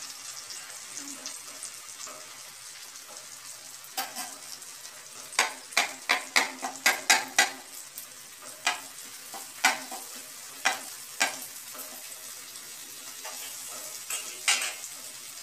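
Okra, tomato and green chillies frying in oil on a wide flat pan with a steady sizzle. A spatula scrapes and taps against the pan in a run of sharp strokes from about four to eleven seconds in, and once more near the end.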